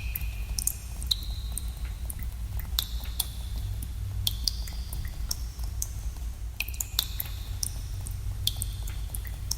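Water drops falling irregularly into pools in a cave, several a second, some giving short ringing plinks, over a steady low rumble.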